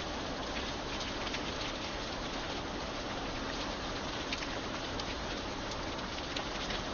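Steady rain falling on a hard surface: a dense hiss with many individual drops ticking sharply through it.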